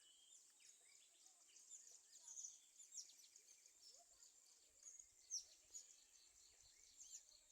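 Faint chorus of many wild birds chirping and calling, short high chirps and whistles scattered throughout, with one slightly louder call about five seconds in.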